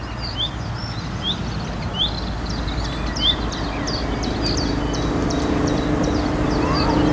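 A small bird chirps repeatedly in short, rising notes over the low rumble of a distant engine that grows steadily louder, a steady hum joining it about halfway through.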